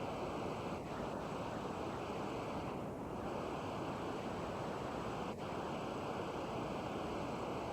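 Steady, even rushing noise with a few brief dips in level, about a second in and again near the end.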